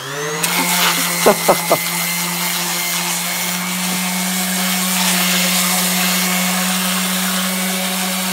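A handheld electric power tool spinning up and then running steadily at full speed, a constant hum with a hiss over it.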